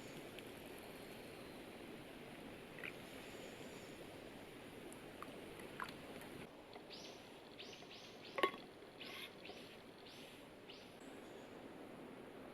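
Faint steady outdoor background with a few light clicks and knocks, one sharper knock about eight seconds in, and a quick run of short high rustles or chirps around the middle.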